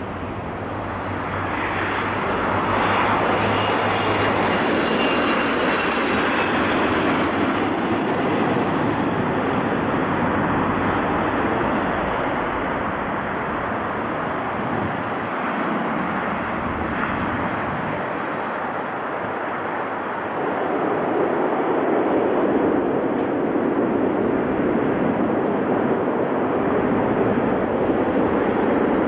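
Jet airliner engines at an airport, a loud steady rush. It swells about two seconds in, with a high whine over the first third, and swells again about two-thirds of the way through.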